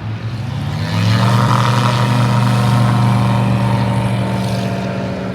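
Light STOL airplane's piston engine and propeller going to full power for a short-field takeoff. The pitch rises over about the first second, then holds steady and loud, easing off slightly near the end.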